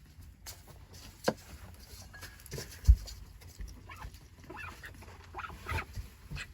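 Chickens making short calls and moving about. There is a sharp knock about a second in and a louder low thump near three seconds in.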